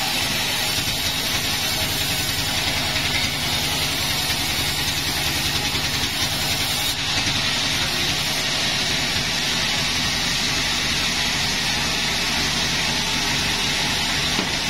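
Sawmill engine running steadily with a fast low pulsing and a hiss over it, with no change in load.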